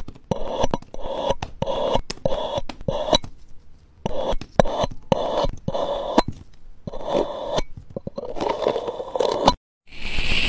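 Slime being worked, giving clusters of sharp crackling clicks and sticky pops with short pauses between them. The sound cuts off near the end and a steady hiss begins.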